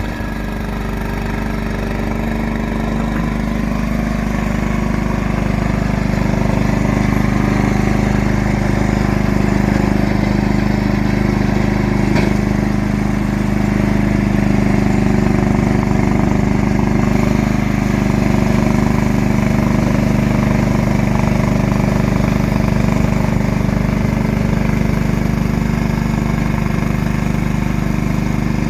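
John Deere snowblower's engine running steadily as the machine clears and throws snow.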